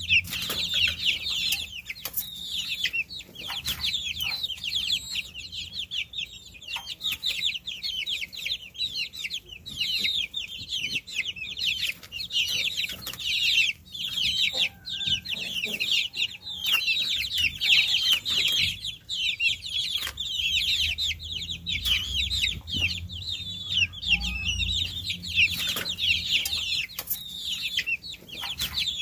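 A group of baby chicks peeping continuously, many high, short calls overlapping, with occasional light clicks and knocks.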